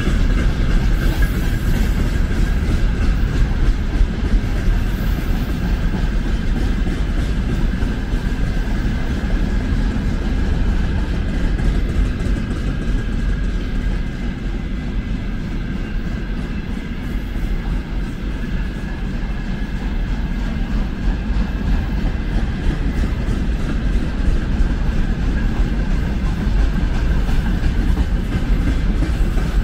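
Freight train's wagons rolling slowly past, steady wheel-on-rail noise throughout.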